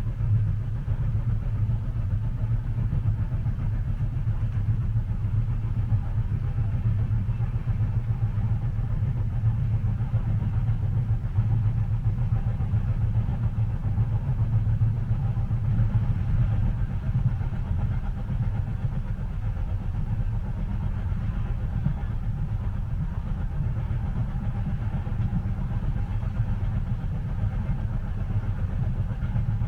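Train cabin ambience: the steady low rumble of a railway carriage running along the track, even throughout with no distinct clicks or clacks.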